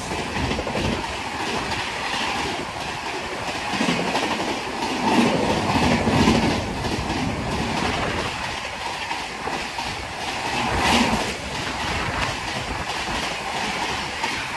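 Passenger coaches of an express train passing close by at high speed: a steady rush of wheels on rail with repeated clickety-clack.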